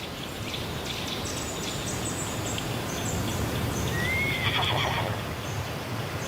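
Horses, with a short neigh about four seconds in, over steady low noise.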